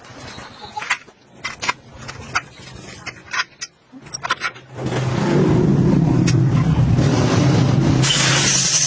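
Scattered metallic clicks and taps, then a loud, steady motor starts running about five seconds in, with a high hiss joining near the end.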